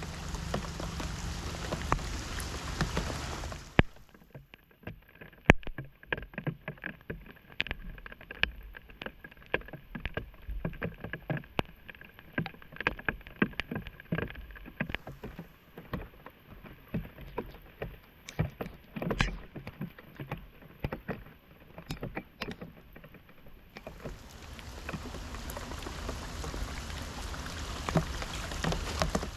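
Floodwater splashing as a clogged street drain is cleared: a steady rush of water at the start and again near the end, with many short splashes and knocks in between.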